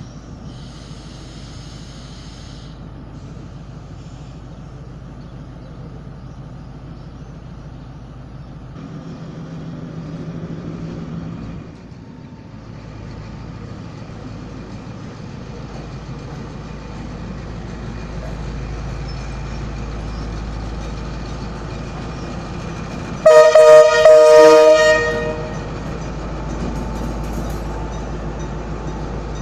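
Diesel locomotive of a passenger train running, its engine rumble growing louder about halfway through as the train gets moving. About two-thirds of the way in, the train horn sounds once, a chord of several tones lasting about a second and a half and the loudest sound.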